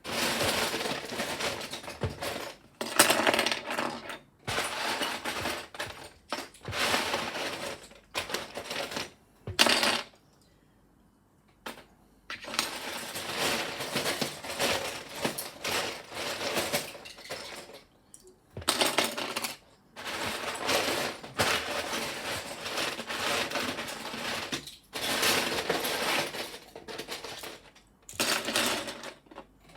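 Plastic Lego pieces clattering and rattling as they are tipped out and sorted by hand, in bursts with short pauses, the longest about two seconds near the middle.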